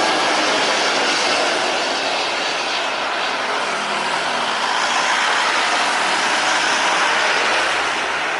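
Airliner landing: a loud, steady rushing roar of engines and airflow that eases off slightly near the end.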